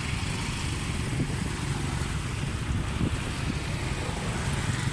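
An engine running steadily, a low even rumble with no sharp events.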